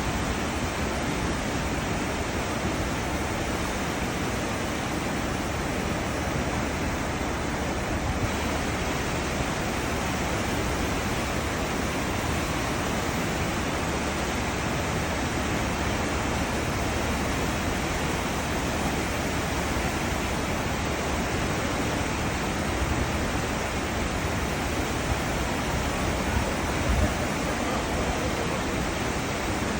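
Cruise ship wake churning behind the ship: a steady, unbroken rush of foaming water with a low rumble underneath.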